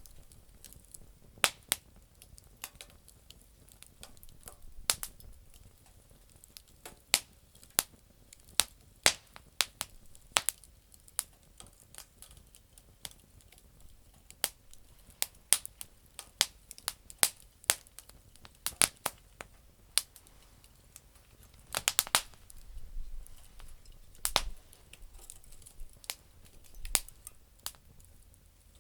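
Campfire of damp firewood crackling: irregular sharp pops and snaps, some single and some in quick flurries, the densest about three quarters of the way through.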